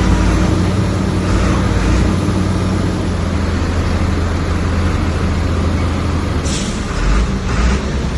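Heavy diesel engine of earthmoving machinery running under load, its note changing about three seconds in, with a short hiss about six and a half seconds in.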